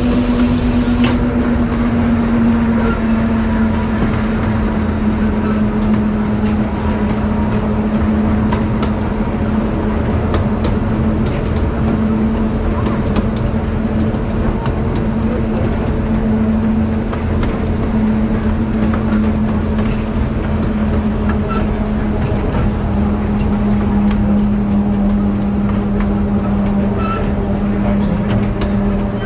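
Akasawa Forest Railway narrow-gauge train running steadily: the diesel locomotive's engine drones on one held pitch over the rumble of the wheels on the track.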